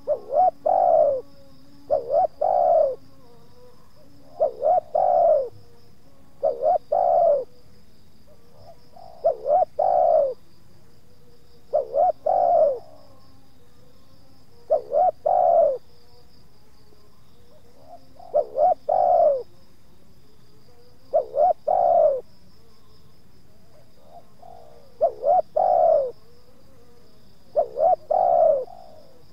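Spotted dove cooing its repeated song, about eleven phrases, one every two to three seconds, each a couple of short notes followed by a longer falling coo. A steady high insect trill runs underneath.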